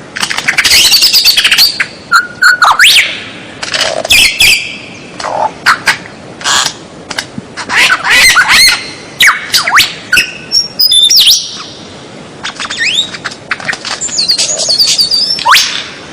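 White-rumped shama (murai batu) singing a loud, varied song: rapid phrases of rising and falling whistles mixed with sharp clicks and harsh chattering notes, broken by brief pauses.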